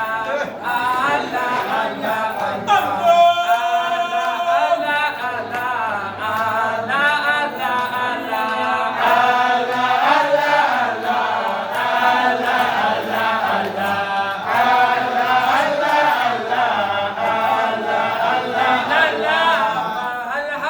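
A group of voices chanting an Arabic devotional poem together, unaccompanied, with a long held note about three seconds in.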